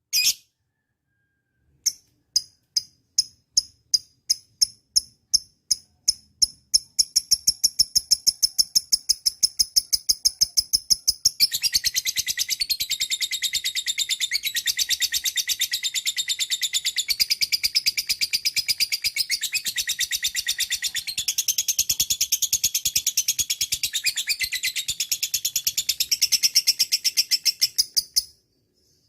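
Lovebird calling: separate sharp, high chirps that come faster and faster, then about eleven seconds in break into a long, unbroken, rapid chattering trill that goes on for some sixteen seconds and cuts off suddenly. This long rapid trill is the 'ngekek' song that lovebird keepers prize.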